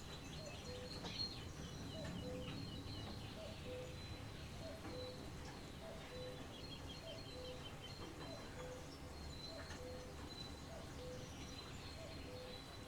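Birds singing in the open: a low two-note call, high then low, repeated steadily about once a second, with thinner high chirps and a quick trill over it, against a steady background hiss.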